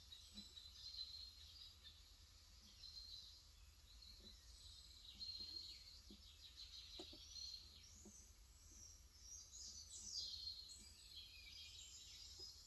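Faint birdsong: small birds chirping and twittering continuously, busiest near the end. A few soft keystrokes on a capacitive keyboard come in around the middle.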